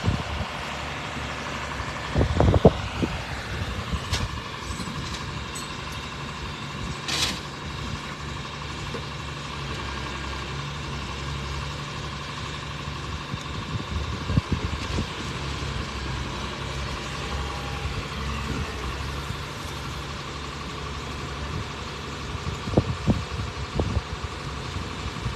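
Heavy truck engine idling steadily, with a brief hiss about seven seconds in and a few low thumps of wind on the microphone.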